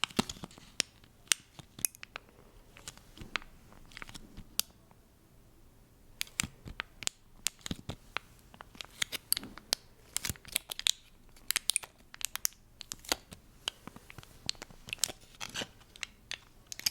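Fast, irregular close-miked tapping and clicking of handled objects, with a short lull about five seconds in.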